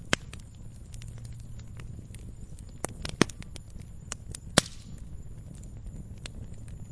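Campfire crackling: burning wood gives irregular small pops and snaps over a low steady rumble of the flames. Three sharper, louder pops stand out, one right at the start, one about three seconds in and one about four and a half seconds in.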